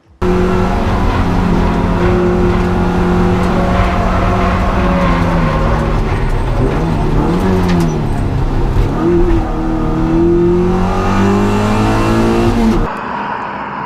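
A race car's engine running at high revs. Its pitch dips and wavers around the middle, then climbs steadily as it accelerates, and it cuts off suddenly near the end.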